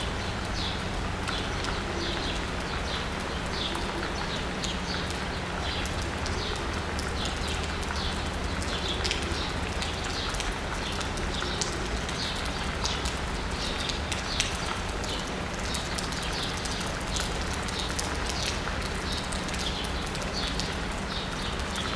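Steady rain falling on asphalt and rooftops, with many sharp drops, while a bird chirps over and over in short calls. A low steady hum runs beneath.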